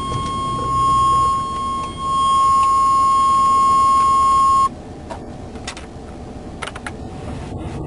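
Dashboard warning tone of a 1998 Chevy C1500 pickup, sounded as the key is turned to start it: one steady high beep held for about four and a half seconds, then cutting off suddenly.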